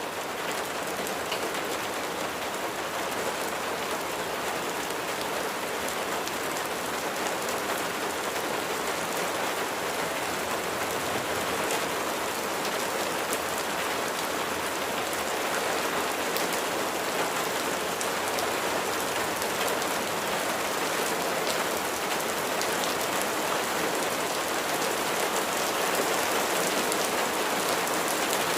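Steady rain falling, a dense even hiss with many fine drops pattering on a surface.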